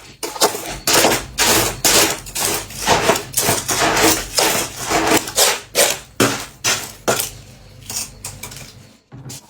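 Humidifier frost squeezed and crumbled by hand into loose frost: loud, irregular crunches, about two or three a second, with a squeaky crunch like footsteps in snow.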